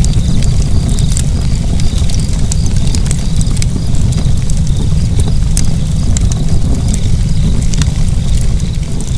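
Fire burning with a steady low rumble of flames and frequent irregular sharp crackles and pops.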